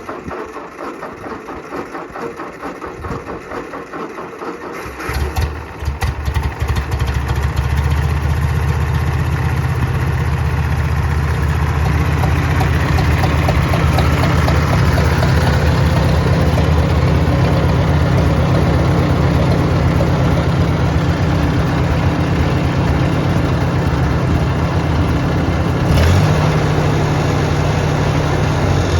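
1953 Ford 641 tractor engine being cranked with uneven pulsing, catching about five seconds in and then running steadily.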